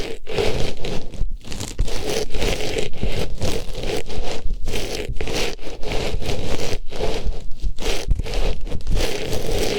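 Artificial rose flower pushed into and rubbed around an ear microphone, making repeated close rustling and scraping strokes with short gaps between them.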